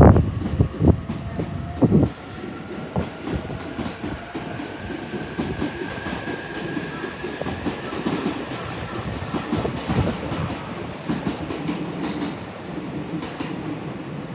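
Electric train running along the platform, its wheels clacking over rail joints with heavy knocks in the first two seconds and a steady rumble, under a faint whine that rises slowly in pitch.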